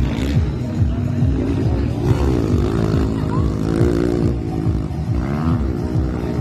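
Honda CRF150 dirt bike's four-stroke single-cylinder engine running, its pitch rising and falling repeatedly as the throttle is opened and closed.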